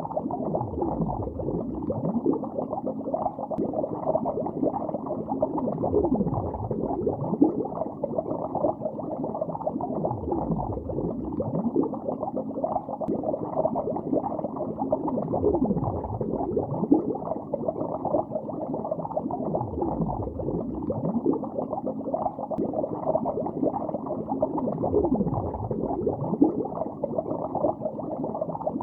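Steady underwater bubbling, heard muffled as if through the water, with a dense stream of small gurgling bubbles and no high sounds. A deeper swooshing sweep, sliding down and back up, comes round about every five seconds.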